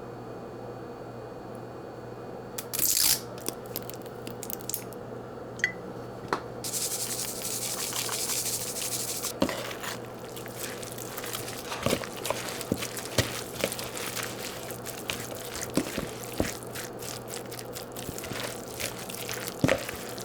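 Kitchen water and dish handling: a short spray of water about three seconds in, a few seconds of running water a little later, then scattered clinks and taps of dishes and utensils, over a low steady hum.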